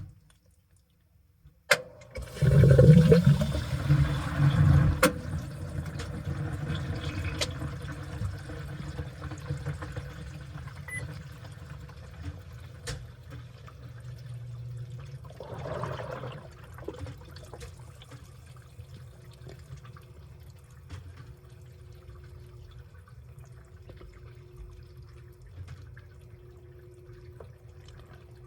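Washing machine taking in water: a click about two seconds in, then water gushes loudly into the drum for a few seconds and settles into a steady rush and slosh of water. A faint steady hum joins near the end.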